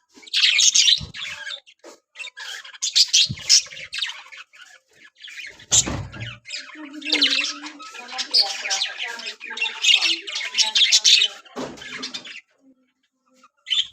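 Budgerigars chattering and squawking in several loud, shrill bursts, with a short thump about six seconds in.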